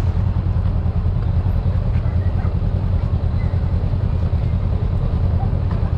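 Motorcycle under way at a steady speed: engine running evenly under heavy wind rumble on the microphone.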